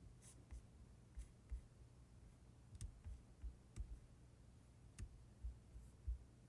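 Near silence with a few faint, sharp clicks, about a second apart in the middle of the stretch.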